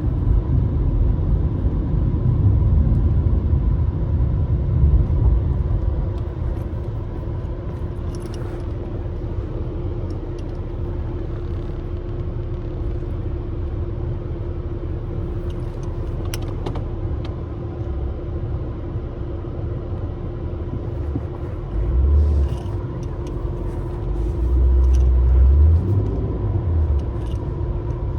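Truck engine running with a steady low rumble while the truck is driven and maneuvered. It swells louder twice near the end, with scattered small clicks and rattles.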